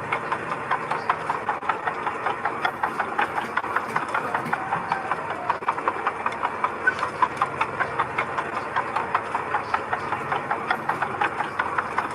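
Mini bulldozer's diesel engine running steadily with a rapid, even clatter.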